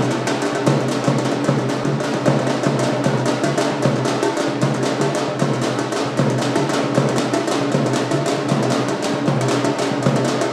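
Music driven by fast, dense drumming, with rapid drum strokes over steady sustained instrument tones.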